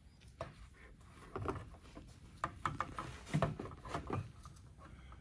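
Irregular light clicks and knocks of parts being handled and pushed into place during a charge air cooler fit. They are sparse at first and come more often and louder from about a second in.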